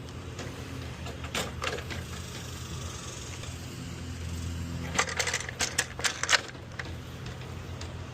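Sharp metallic clinks and knocks, a couple early on and a quick cluster of them about five to six seconds in, over a steady low hum.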